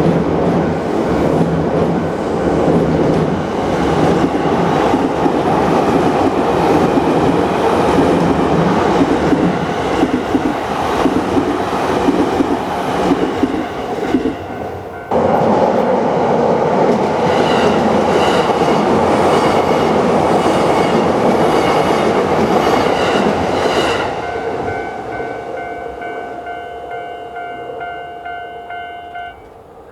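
Electric train passing close by a level crossing, with the rhythmic clatter of wheels over the rail joints; about halfway through the noise drops briefly and picks up again. After the train clears, the crossing's electronic warning bell keeps ringing in quick, even strikes, fading and stopping near the end.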